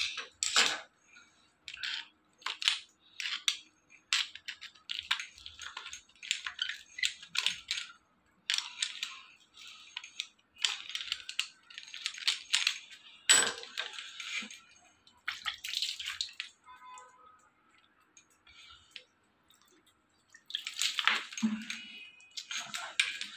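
Screwdriver scraping and poking limescale out of the ports of a shower mixer's valve body, in quick irregular scratching strokes with a few sharper clicks. The ports are caked shut with scale, the reason the shower gives no hot water.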